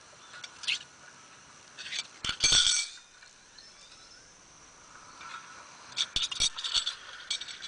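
Small hard objects clinking and rattling in several short bursts, loudest about two and a half seconds in and again near the end.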